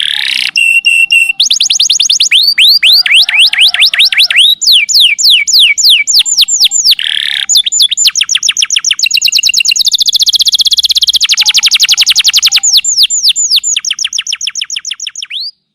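Domestic canary singing loudly: runs of rapidly repeated falling whistled notes, a few a second, that switch to faster trills and rolls. The song cuts off abruptly near the end.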